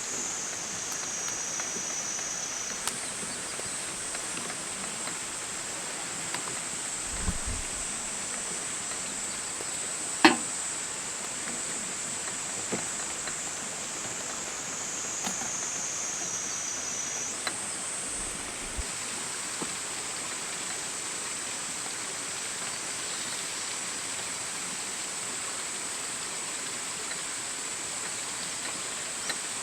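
Wood campfire burning with a steady crackle and a few sharp pops, the loudest about ten seconds in.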